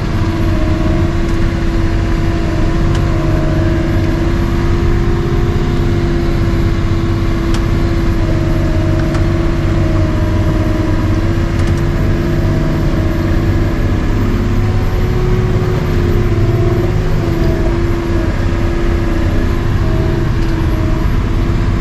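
Caterpillar 725 articulated dump truck's diesel engine running steadily, its pitch wavering slightly around the middle.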